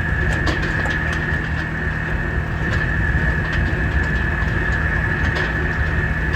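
An engine running steadily, with a constant high-pitched whine above its low rumble and light scattered ticks.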